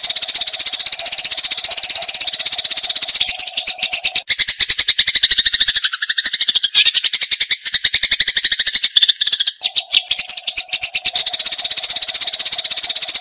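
Eurasian tree sparrow in aggressive 'fighting' mode, giving a loud, unbroken rapid chatter of many short high notes a second. From about four to ten seconds in, the chatter drops partly lower in pitch, and a faint steady hum underneath stops, then returns.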